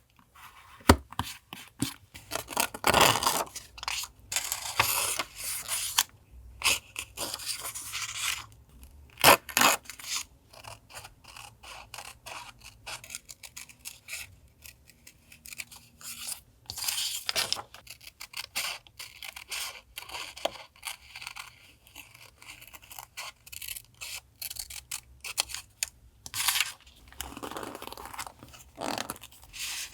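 Paper and stickers being handled for a collage journal page: scraping and rustling in irregular bursts, with many sharp taps and clicks in between.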